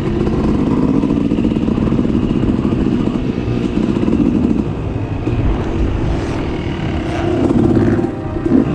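Dirt bike engine running on the track, a dense, steady buzz that eases a little about five seconds in and swells again near the end.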